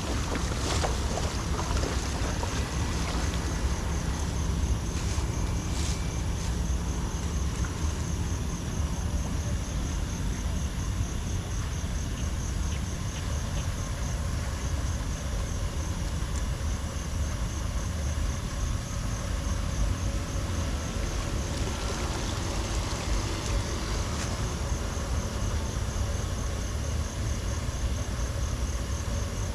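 Wind buffeting the microphone over a steady rushing noise, with a high, rapid insect trill throughout.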